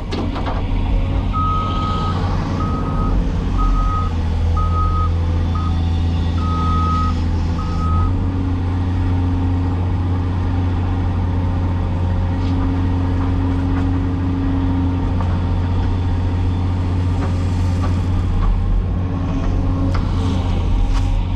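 Cat 336E excavator's diesel engine running steadily, the drone shifting in tone about eight seconds in. A high-pitched warning alarm beeps in short, uneven pulses over the first eight seconds.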